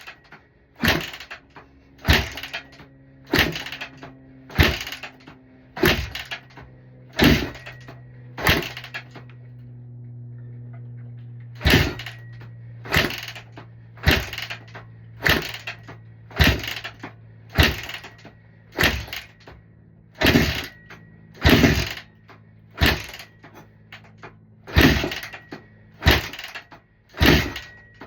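Honda CRF150R dirt bike being kicked over again and again, a sharp clank about once a second with a pause of a few seconds partway through, as the owner tries to start a bike that won't start.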